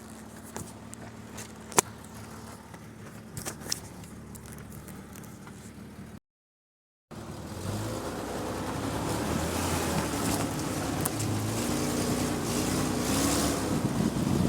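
Jeep engine idling low, with a few sharp clicks and snaps about two and three and a half seconds in. After a one-second gap of silence the engine works under load, its pitch rising and falling and growing louder.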